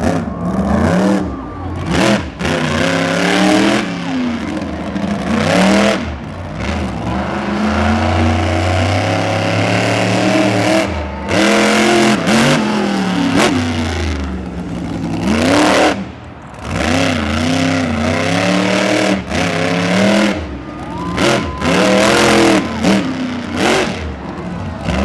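Monster truck engine revving hard, over and over, its pitch climbing and falling with the throttle through the run, with a few sharp bangs in between.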